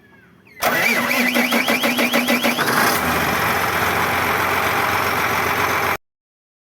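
A small John Deere tractor engine being cranked by its starter motor, pulsing about five times a second, then catching and running steadily. It cuts off abruptly near the end.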